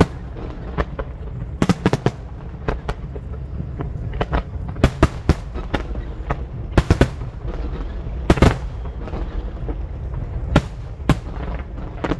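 Aerial fireworks bursting: about a dozen sharp bangs at irregular intervals, some in quick pairs, over a steady low rumble.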